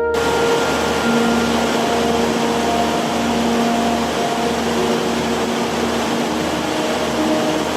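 Waterfall: a steady rush of falling water that cuts in suddenly, over soft ambient music with long held tones.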